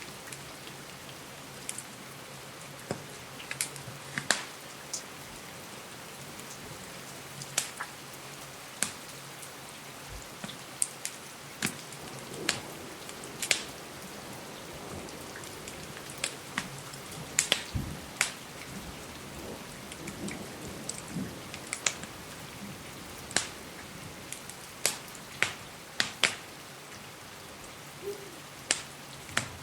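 Steady rain hiss with irregular sharp crackles and pops from a wood fire scattered through it.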